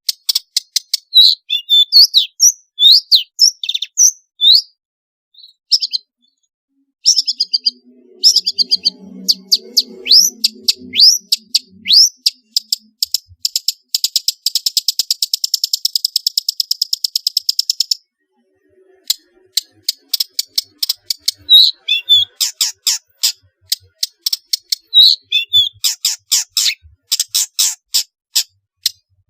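Long-tailed shrike singing a fast, varied stream of high chirps, clicks and short whistled notes. Midway comes a long buzzy rattle, then a short pause, and the chirping resumes.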